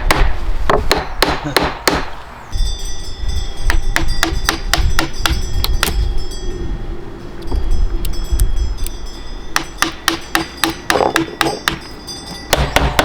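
Quick runs of sharp hammer taps, one at the start and another near the end, a few strikes a second. In between, a steadier sound with a few held tones and a low rumble.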